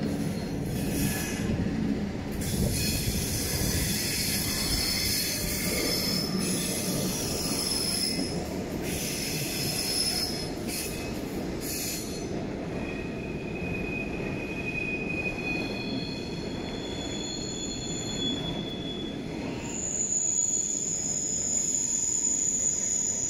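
Passenger trains rolling slowly over the switches of a busy station approach: a steady low rumble with a few clicks, and high-pitched squealing from steel wheels on the curves from about halfway in, loudest near the end.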